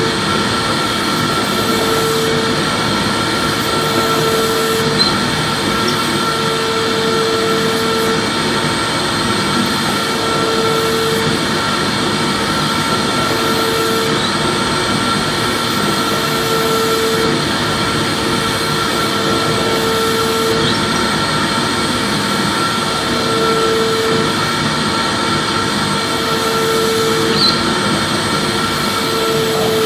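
Vacuum cleaner motor running steadily with a high whine over its rushing noise, and a lower hum that comes and goes every second or two.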